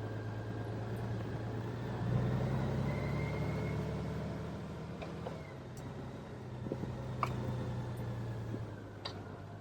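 Honda Gold Wing motorcycle running on the road, a steady low engine hum with road and wind noise, growing louder for a few seconds about two seconds in.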